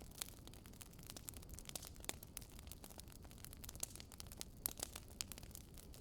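Campfire burning: a steady low rumble of flames with irregular crackles and sharp pops of burning wood, a few louder snaps among them.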